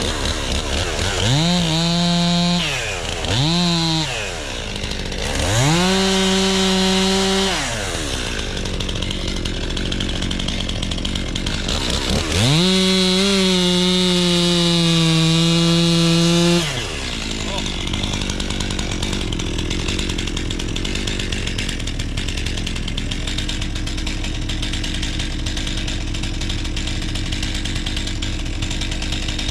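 Two-stroke chainsaw revved to full throttle four times, the last run holding for about four seconds, dropping back to idle in between and after.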